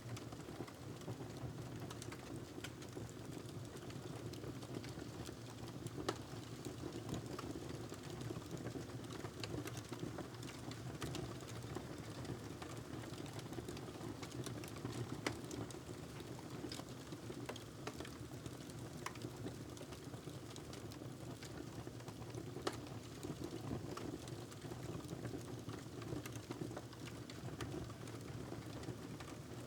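Wood fire crackling in a fireplace: scattered sharp pops and crackles at irregular times over a steady low background.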